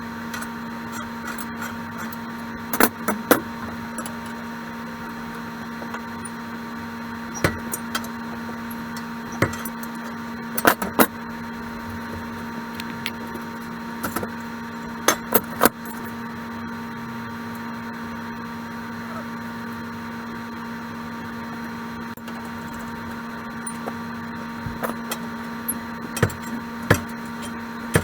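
A steady electrical hum with scattered sharp clicks and knocks, as of metal parts being handled.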